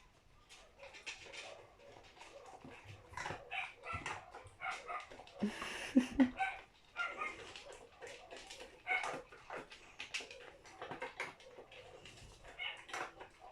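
Dog eating leftover food from a bowl: a run of chewing and crunching clicks, with a brief dog vocalization about six seconds in.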